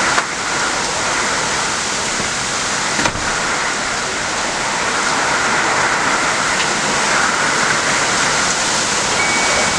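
Heavy rain coming down in a steady, loud hiss, with a single sharp click about three seconds in.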